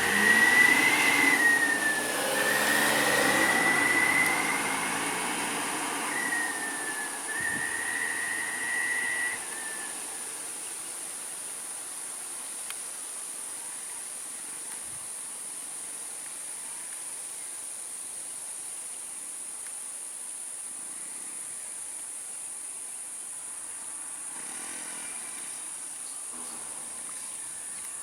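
A steady high-pitched insect drone, with a vehicle going past in the first ten seconds, its wavering whine fading out.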